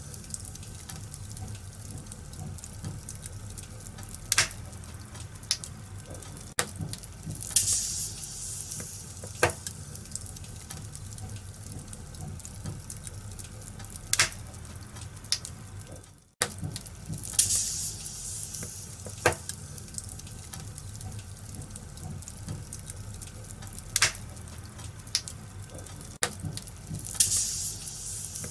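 Wood fire crackling in a fireplace: a steady hiss and low rumble with sharp pops every few seconds and a few short flare-ups of hissing. The sound cuts out for an instant about halfway through.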